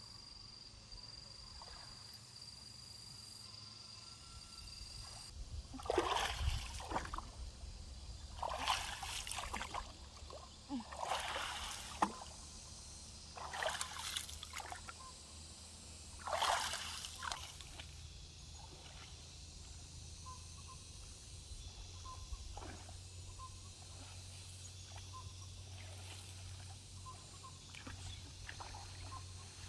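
Water sloshing and splashing in a shallow stream in five separate strokes, each about a second long, with a steady high insect trill in the first few seconds.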